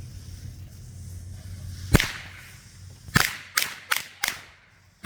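A pack of Shelton Warpath firecrackers going off: one sharp bang about two seconds in, then four more bangs in quick, uneven succession, slow for a string of firecrackers. Before the first bang, only a low steady hum.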